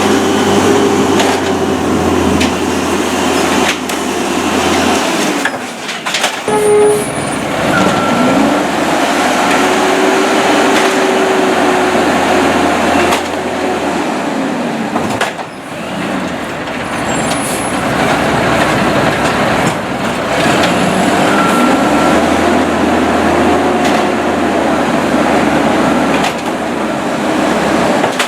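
Peterbilt automated side-loader garbage truck's engine being manually revved: it rises, holds high for several seconds and drops back, about three times, the driver speeding up the hydraulics for the lifting arm.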